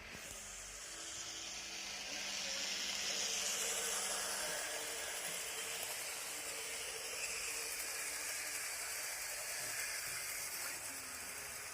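Model TE-3 diesel locomotive running along the track: a steady whirring hiss of motor, gears and wheels that grows louder over the first few seconds and then holds, with a high whine that slides down in pitch.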